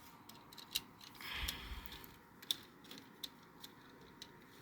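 Faint small plastic clicks and taps of an HO-scale tanker car being handled onto the track and coupled, with a short soft rustle about a second and a half in.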